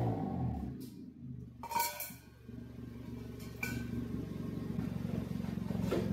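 Small car engine breathing through an aftermarket racing muffler: a rev dies away, then a short quiet break with a few light clicks. The engine then idles steadily.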